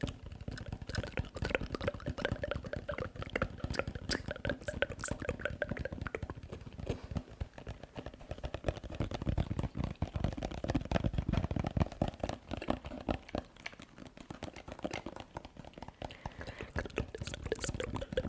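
Close-miked ASMR tapping and wet mouth sounds: a dense, rapid stream of small clicks and smacks with no pause.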